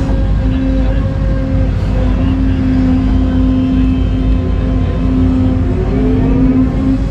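Excavator's diesel engine running steadily under hydraulic load, with a faint rising whine near the end.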